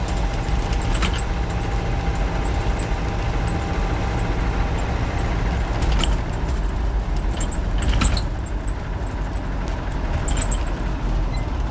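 Land Rover 90's 300Tdi four-cylinder turbo-diesel engine running steadily on the move, heard from inside the soft-top cab with road noise, a little noisier with the sides up. A few brief knocks or rattles come through, around a second in and twice more later.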